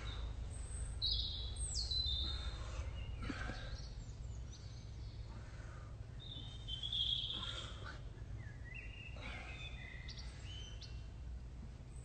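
Birds chirping and whistling in short calls, some falling in pitch, over a steady low rumble of background noise.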